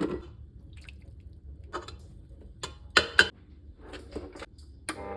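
Scattered light clicks, clinks and knocks of kitchen items being handled, the loudest cluster about three seconds in. Near the end a click is followed by the steady hum of a kitchen appliance starting up.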